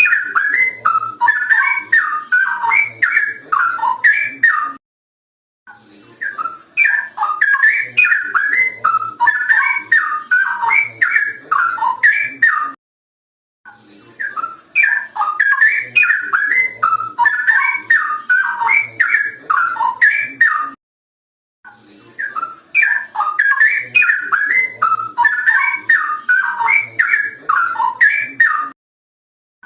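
Straw-headed bulbul (cucak rowo) singing loudly: rich, fast whistled song phrases in runs of about seven seconds, each broken by a short silence of about a second.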